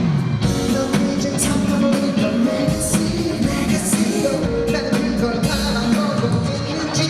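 Live concert recording of a male pop singer singing over a full band with drums.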